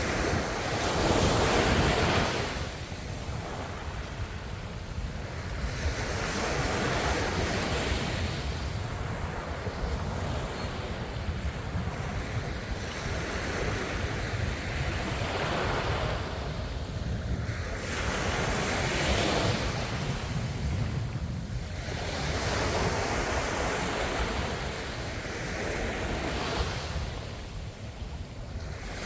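Ocean waves breaking and washing on the shore, swelling and falling back every few seconds over a steady low rumble.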